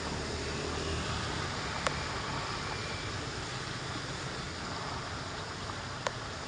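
Steady rushing of floodwater draining into a storm drain, with a low rumble underneath and two short sharp clicks, about two seconds in and near the end.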